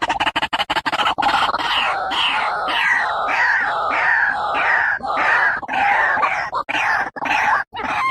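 White-breasted waterhen (ruak-ruak) calling: a fast chatter at first, then harsh, repeated croaking notes about twice a second that break up into separate, more widely spaced notes near the end. It is a lure recording of the call, played to draw the birds in.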